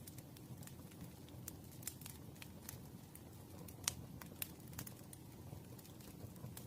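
Campfire crackling: a wood fire giving irregular small pops and snaps over a low steady rumble, with one sharper pop about four seconds in.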